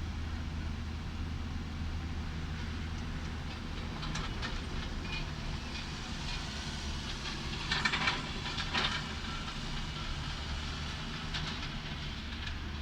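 Heavy construction machinery running with a steady low engine hum, with a burst of metallic clanking and scraping about eight seconds in.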